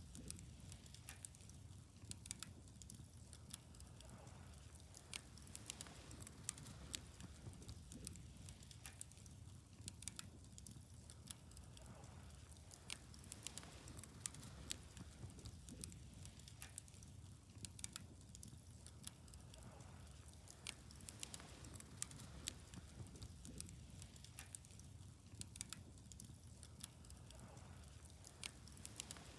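Wood fire burning, with quiet, irregular crackles and sharp pops from the burning wood.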